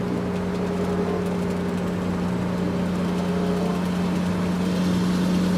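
A steady engine-like hum: one constant low tone over a noisy rumble, unchanging throughout.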